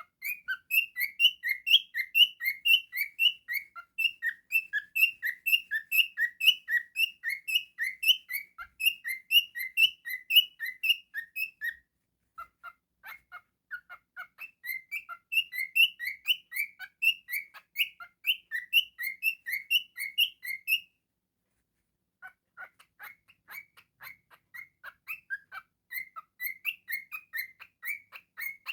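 Cockatiel chirping rapidly, a steady run of short high chirps at about three a second, broken by a short pause about twelve seconds in and another about twenty-one seconds in.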